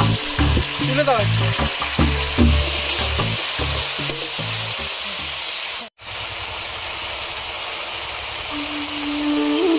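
Hot oil sizzling in a large metal wok as spice paste is stirred into frying sliced onions. The sizzle cuts out for an instant about six seconds in, then goes on as a thin mixture bubbles in the pan.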